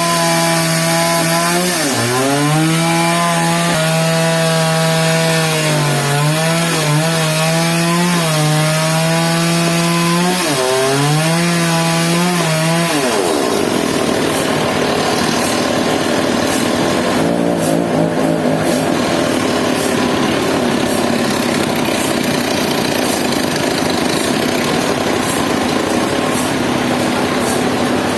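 Powered sawmill saw cutting a log of suar wood. Its motor note dips and recovers several times under load for the first dozen seconds, then sinks into a steady, rough sawing noise as the blade works through the wood.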